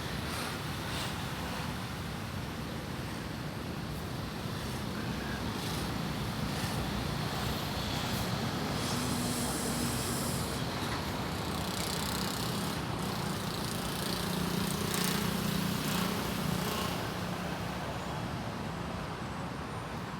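Steady outdoor rumble of distant road traffic, with a low engine hum that swells for several seconds midway and then fades.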